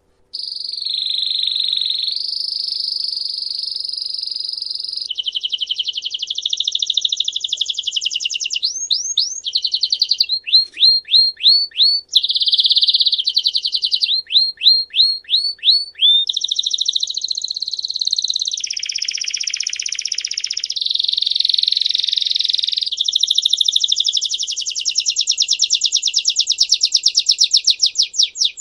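A songbird singing a long, unbroken song of high-pitched rolling trills alternating with runs of quick down-slurred chirps. It starts suddenly just after the beginning.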